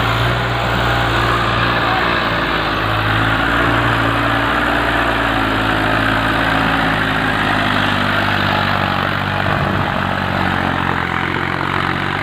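Massey Ferguson 245 tractor's diesel engine running steadily, pulling a heavily loaded trailer.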